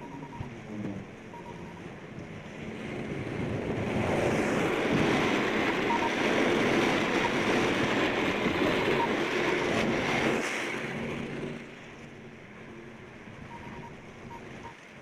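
An engine running, rising to a loud rushing load for about eight seconds, then dropping back suddenly to a lower steady run.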